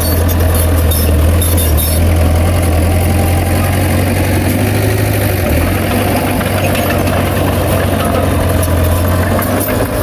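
Heavy diesel engine of earthmoving machinery running steadily at a constant speed, with a deep, even hum.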